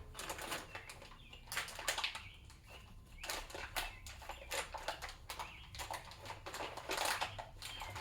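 Crinkling, rustling and small clicks of plastic packaging being handled and picked at, as someone struggles to get it open.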